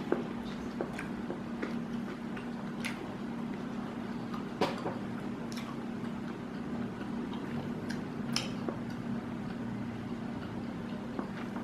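Eating sounds: scattered light clicks and taps at uneven intervals, the sharpest a little over four seconds in, over a steady low hum.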